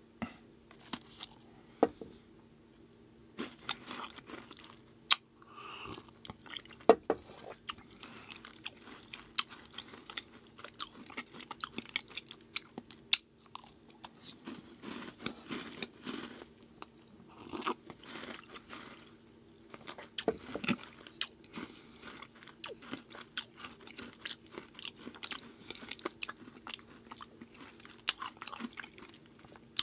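Close-miked chewing and crunching of dry, crisp vegan chocolate chip cookies, with irregular sharp crunches as bites are taken and chewed. A faint steady hum runs underneath.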